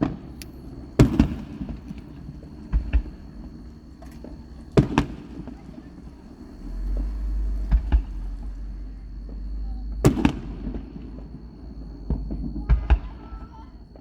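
Aerial fireworks shells bursting: about six sharp bangs a few seconds apart, each trailing off in a short echo, with a quick double bang near the end.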